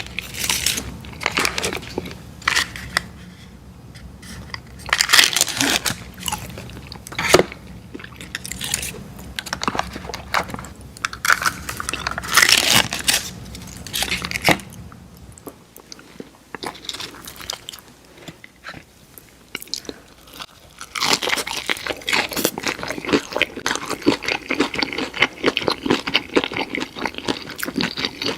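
Close-miked eating of fried food: big crunchy bites and chewing, with a quieter spell of chewing past the middle, then dense, continuous crunching near the end.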